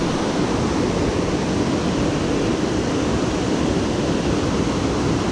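Steady rushing of water pouring over a dam's man-made waterfall, an even roar with no breaks.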